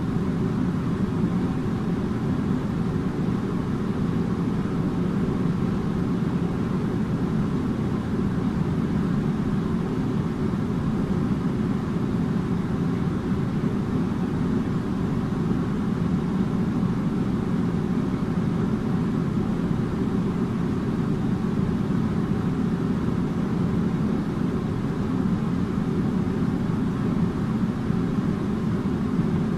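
Air conditioner running steadily: an even, low rumbling hum and rush of air with no changes.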